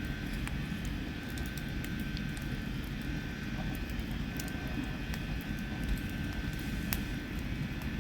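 Wood campfire crackling with scattered sharp pops over a steady low rumble.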